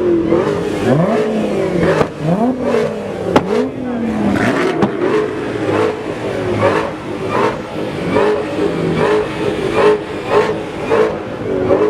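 Car engine revving: a few quick blips that rise and fall in pitch in the first few seconds, then held steady at high revs.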